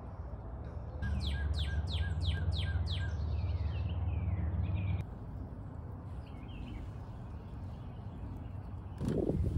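A songbird sings a quick run of six sharply falling whistled notes about a second in, over a steady low rumble, with a few fainter chirps after. A brief louder sound comes near the end.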